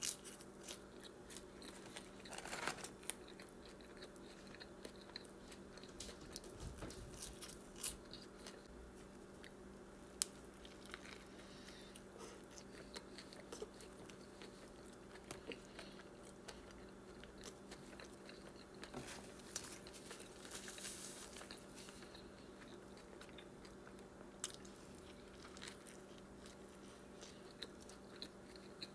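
Close-miked chewing and biting of McDonald's french fries and a Big Mac, with many small crunches and wet mouth clicks. A low steady hum runs underneath.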